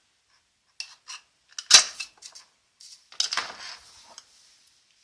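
Knife spine scraped down a ferrocerium rod to throw sparks onto tinder: a few light metallic clicks, then one loud sharp scrape just before two seconds in and a longer, hissing scrape a little after three seconds.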